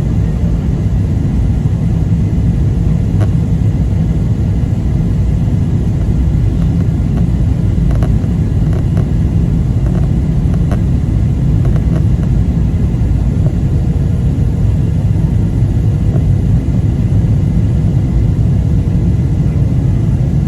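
Boeing 777-300ER airliner landing: a steady low rumble of engines and airflow, with a faint steady hum above it and a few faint clicks about halfway through.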